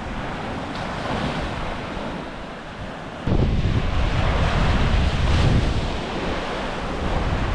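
Surf washing onto the beach, with wind buffeting the microphone. The low wind rumble turns suddenly louder about three seconds in.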